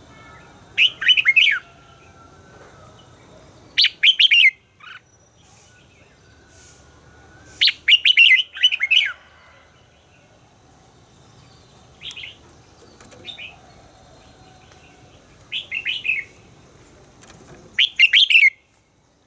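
Red-whiskered bulbul singing: about seven short phrases of quick, sliding, warbled notes, a few seconds apart.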